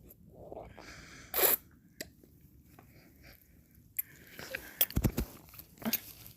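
Close-miked mouth sounds of eating ice cream: a loud wet slurp about one and a half seconds in, then a cluster of lip smacks and mouth clicks between about four and six seconds, with a couple of low thumps near five seconds.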